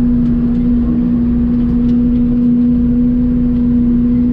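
Mini excavator's diesel engine and hydraulics running steadily while it moves dirt, with a constant droning hum.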